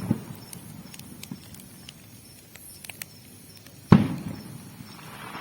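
Bonfire crackling with scattered small pops, and one much louder bang about four seconds in that fades away.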